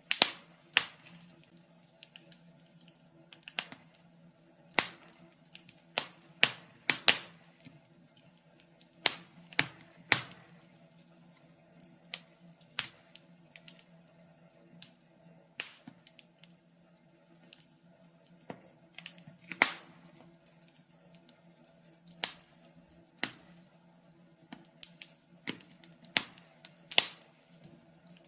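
Logs burning in a fireplace, crackling with sharp, irregular pops and snaps, some in quick clusters, over a faint steady hum.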